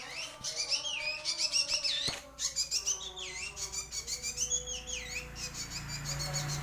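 Young drongo calling: a rapid, continuous run of whistled, chirping notes that swoop up and down in pitch, with a short break a little over two seconds in.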